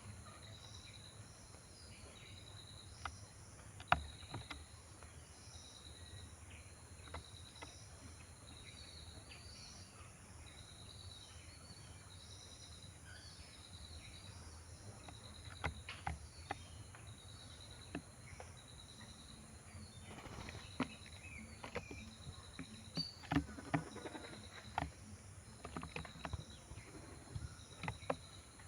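Outdoor ambience of chirping insects: a short high chirp repeating about once a second over a steady high hiss. Scattered sharp clicks and rustles come through it and grow busier after about twenty seconds.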